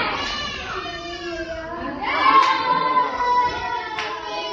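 Voices calling out, with one long, high, held call starting about two seconds in.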